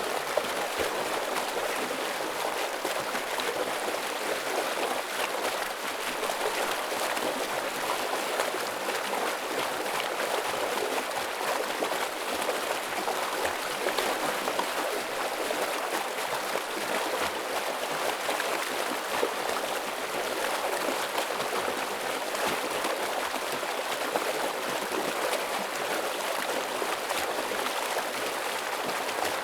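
Forest stream flowing heavily over rocks: a steady rush of water with small irregular splashes and gurgles.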